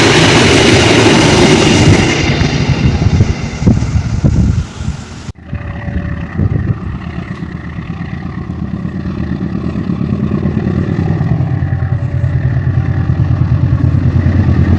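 Loud rumbling of a train passing at a railroad crossing, cut off abruptly about five seconds in. Then the steady running of road vehicle engines, growing louder toward the end.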